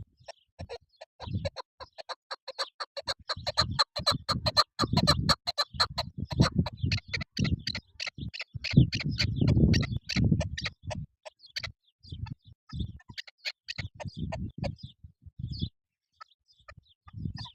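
Chukar partridge calling: a long series of rapid clucking notes that builds into a dense run about two seconds in and thins out after about ten seconds, with intermittent low thumps.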